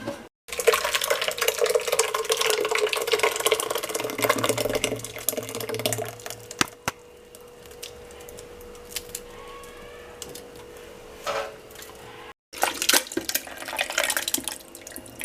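Water running and splashing with small clinks of kitchen dishes, busy for the first six seconds, then quieter with scattered clicks, with a short burst again near the end.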